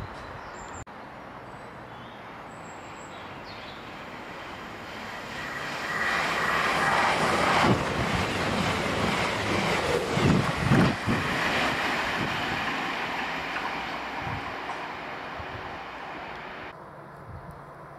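CrossCountry Voyager diesel multiple unit passing at speed: a rush of underfloor engines and wheels on rail that swells, is loudest about halfway through with a few low knocks, then fades and cuts off suddenly near the end.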